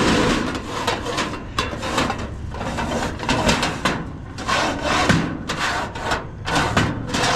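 Rummaging through a pile of discarded household items: an irregular run of scraping, rubbing and knocking as objects are pulled out and moved.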